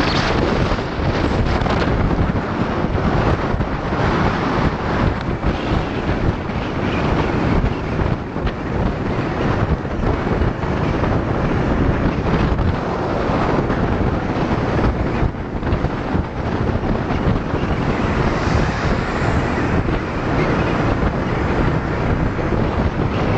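Wind buffeting the microphone in a dense, steady rush, over the running of motor scooters on the road.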